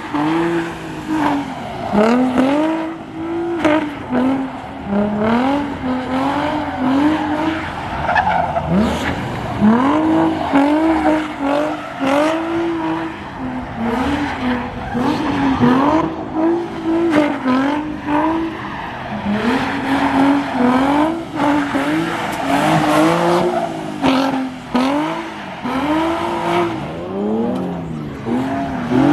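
Car engines revving up and dropping back again and again, with tyres squealing, as cars do burnouts or slides.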